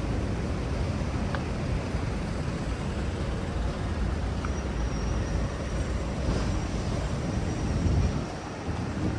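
Steady city traffic rumble along a busy street, swelling briefly near the end, with a faint thin high whine coming in about halfway.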